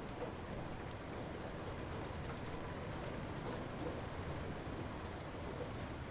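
Light rain falling steadily, an even patter with scattered individual drops ticking.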